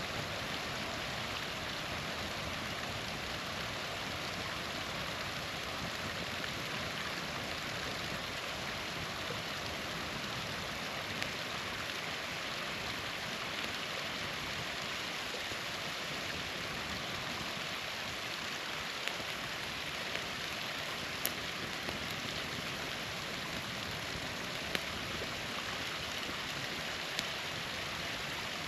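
Small waterfall splashing and rushing steadily, with a campfire giving a few sharp pops now and then, about half a dozen over the span.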